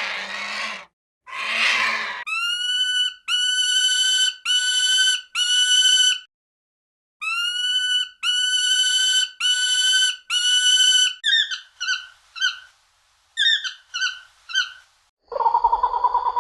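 Recordings of bird calls played one after another. First a harsh, raspy screech; then two series of four clear, ringing whistled calls, each sliding up at its start; then a quick run of short chirps; and a different lower call starts near the end.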